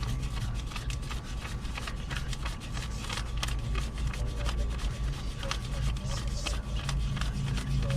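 Rustling and scattered small clicks, like hands or clothing handling a microphone, over a steady low rumble.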